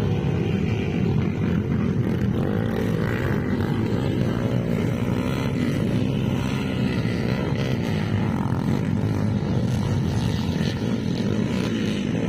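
Motocross bike engine running continuously, its pitch rising and falling with the throttle.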